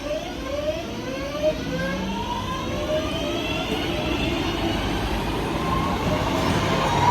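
Electric train pulling away. Its traction motors whine in a series of rising tones that keep climbing in pitch as it accelerates, over the steady rumble of the train, which grows slightly louder.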